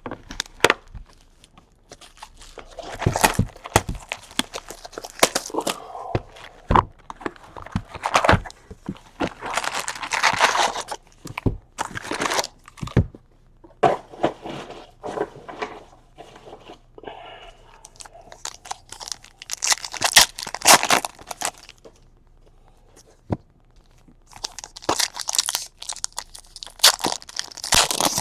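Trading card pack wrappers being torn open and crinkled by hand, in repeated bursts of rustling with sharp clicks between short pauses.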